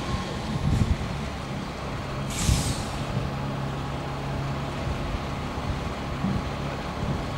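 Terberg terminal tractor's engine running steadily, with a short hiss of air from the brakes about two and a half seconds in.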